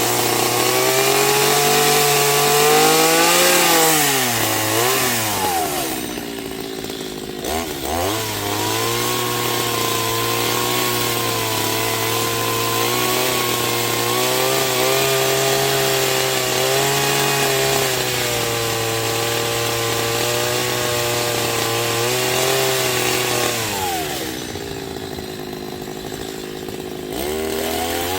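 Chainsaw engine running at speed, its pitch wavering slightly. It drops back to a lower, quieter speed twice, about five seconds in and again near the end, and picks up again each time.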